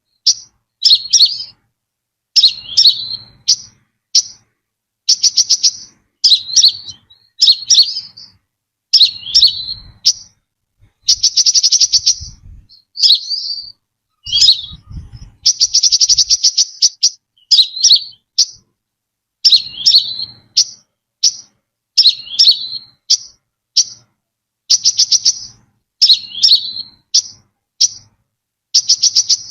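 Brown-throated sunbird song: short, high chirping phrases repeated about once a second, with a couple of longer rapid trills of quick ticking notes about a third of the way and halfway through.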